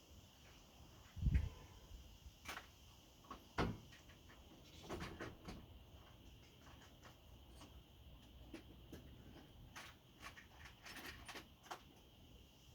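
Scattered clicks and knocks of parts and tools being handled, with a dull thump about a second in and small clusters of clatter around five and eleven seconds.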